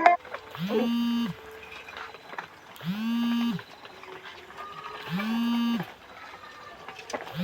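A machine giving short, identical hums of steady low pitch, each about two-thirds of a second long, repeating regularly about every two seconds, with faint chirps between.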